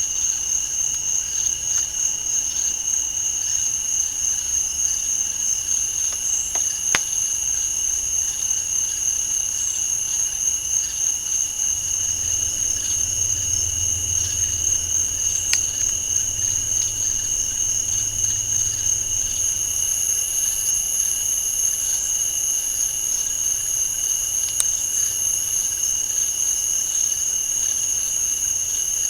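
Night insect chorus in a swamp: a continuous high-pitched trilling on two steady pitches. There are a few faint sharp clicks, about 7, 15 and 25 seconds in, and a low rumble through the middle.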